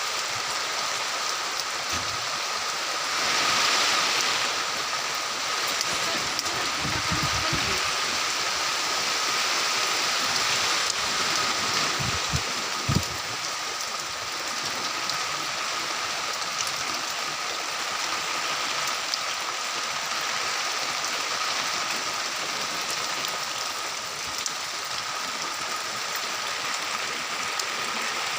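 Steady splashing rush of water, with a faint steady whine running under it and a couple of brief low knocks about halfway through.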